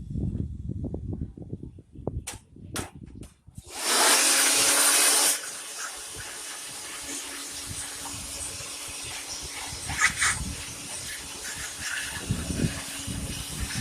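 Knocks and clicks of handling, then about four seconds in an OKS cordless battery blower switches on with a loud rush of air. After a second or so the rush drops to a steadier, quieter blowing with a low motor hum, as the air is used to clean out a desktop computer.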